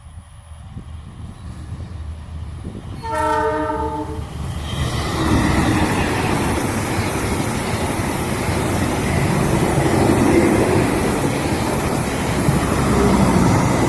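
A train's horn blows once, briefly, about three seconds in. Then the noise of the train running on the rails builds up and stays loud.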